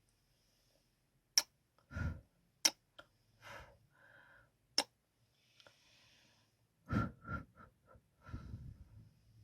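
ASMR kissing sounds close to the microphone: several sharp lip smacks, with softer mouth sounds and breaths in between.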